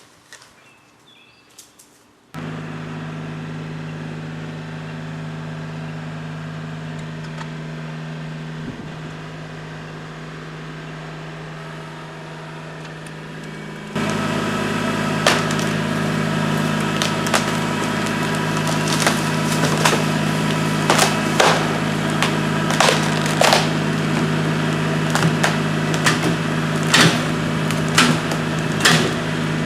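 Kubota L3301's three-cylinder diesel engine running steadily, coming in abruptly a couple of seconds in and louder from about halfway. Over the louder half come many sharp cracks and snaps: rotted black cherry branches splintering as the tractor pulls on them with a strap.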